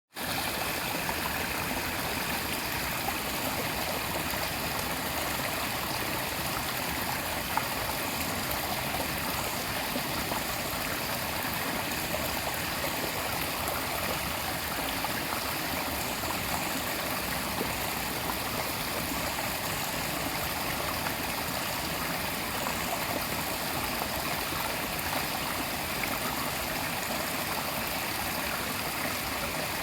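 Small forest stream flowing slowly: a steady, even babble of running water.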